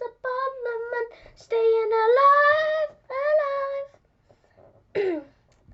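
A child singing unaccompanied, the last phrase of a line ending on a long held note that rises in pitch, stopping about four seconds in; a short falling vocal sound follows near the end.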